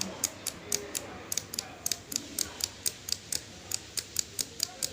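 A small switch in a Panda portable cassette/CD/radio player clicking about four times a second as it is worked rapidly back and forth, spreading freshly sprayed electronic contact cleaner to clear its poor contact.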